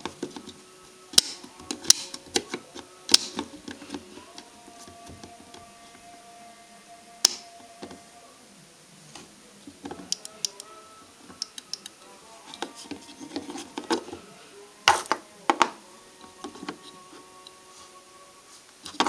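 Scattered sharp clicks and knocks of small hard parts being handled and tapped, in bunches about a second in, once near the middle and several times late on, over faint steady tones.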